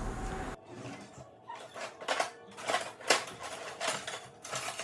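Chicken wings being mixed with marinade and seasonings in a bowl: a run of short, irregular wet squelches and clicks.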